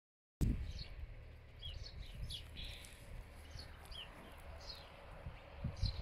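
Small birds chirping in short, quick calls, repeated a dozen or so times, over a steady low rumble.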